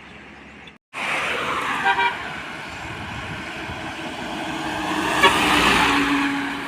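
Road traffic noise that starts abruptly about a second in, as a vehicle passes close and its sound swells to a peak near the end. Two short horn toots sound, about two seconds in and again near five seconds.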